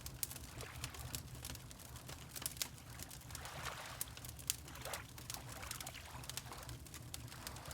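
Wood fire crackling with many small sharp pops, layered over water lapping and sloshing gently, the water swelling a little around the middle. A low steady rumble runs underneath.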